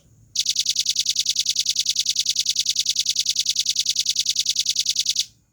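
Velvet-fronted nuthatch singing a long, fast trill of evenly spaced high notes, about ten a second, for nearly five seconds.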